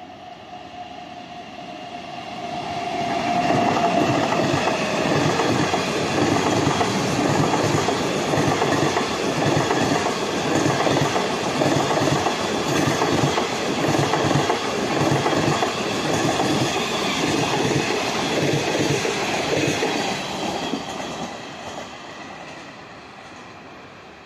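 A train passing by: it grows louder over the first few seconds, runs loud with the steady clickety-clack of its wheels over rail joints, then fades away over the last few seconds.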